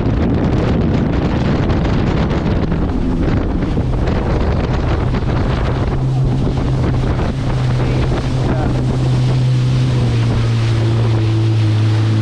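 Wind buffeting the microphone over water and waves, with a motor boat's engine coming in about halfway through as a steady low hum.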